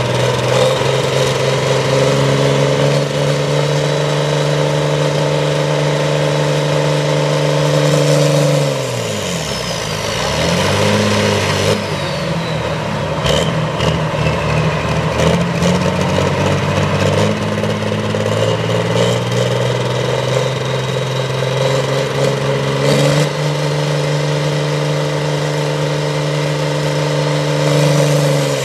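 Competition pulling tractor's engine running at high revs under load. About nine seconds in, the revs fall away sharply. The engine runs lower and rougher for a while, revs back up near the end, then drops again at the close.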